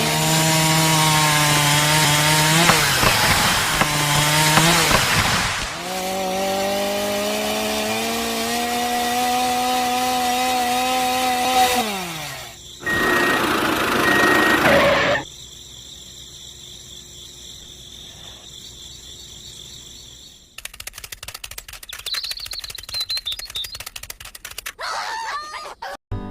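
A small electric motor whines loudly. Its pitch dips twice and recovers, then falls as it winds down and stops about twelve seconds in. A short burst of harsh noise follows, then a much quieter stretch with fast irregular ticking and faint chirps near the end.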